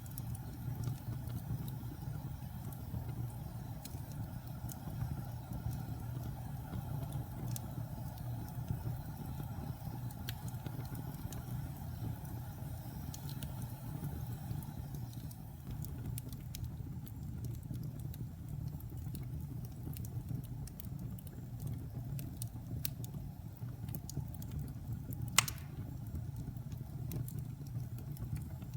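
Wood fire in a fireplace crackling over a steady low rumble of flames, with scattered small snaps and one loud pop near the end.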